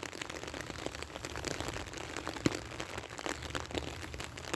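Light rain pattering close to the microphone: a dense, irregular crackle of small ticks, with one sharper tick about two and a half seconds in.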